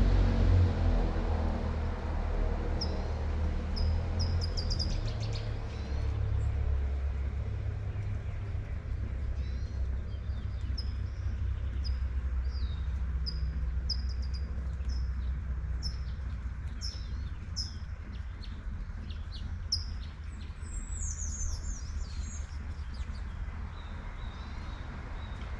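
Small birds chirping in short, quickly repeated high notes over light rain and a steady low traffic rumble; a passing car's engine fades away in the first couple of seconds.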